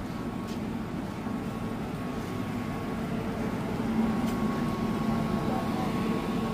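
Stationary SNCF regional train humming steadily at the platform, a low drone with a faint high whine, growing louder as it is approached.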